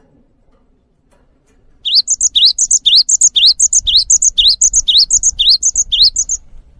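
A songbird singing a fast, evenly repeated phrase about twice a second, each a rising whistle followed by higher, quick notes. It starts about two seconds in and stops shortly before the end.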